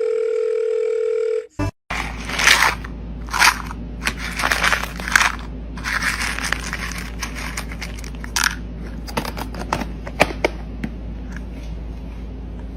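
A steady electronic tone, like a telephone tone, for about a second and a half, then a run of irregular crunching, crinkling and tearing noises that thin out over the last few seconds.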